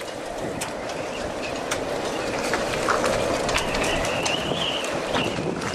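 Storm wind blowing hard with repeated knocks and rattles. A thin, high creak or whine runs for about a second and a half past the middle.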